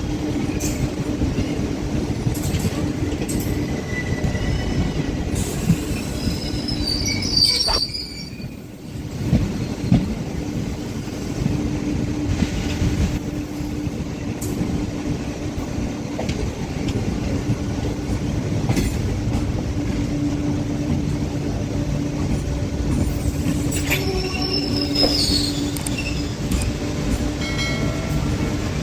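MEMU electric multiple unit train running along the track, a steady rumble of wheels on rail with a constant hum. Two brief high-pitched wheel squeals come through, about seven seconds in and again near the end.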